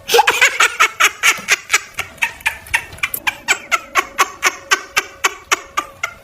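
Laughing sound effect: rapid, staccato laughter in short, even 'ha' pulses, about five a second, each dropping slightly in pitch. It starts abruptly and keeps a steady rhythm.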